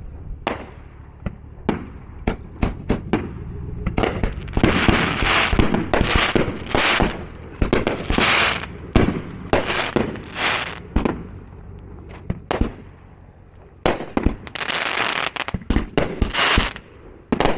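Consumer fireworks going off in quick succession: separate sharp bangs at first, then from about four seconds in a denser run of bangs with hissing bursts between them.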